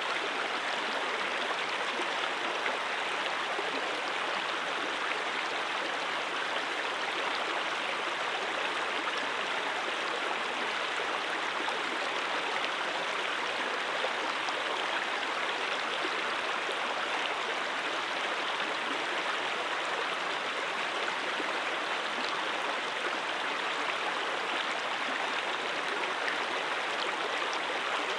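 Mountain stream water rushing and babbling over rocks, a steady, even flow.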